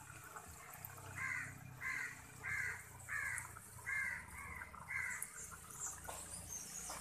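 A bird giving seven short calls in a row, about one every two-thirds of a second, starting about a second in. A low steady hum runs underneath and fades near the end.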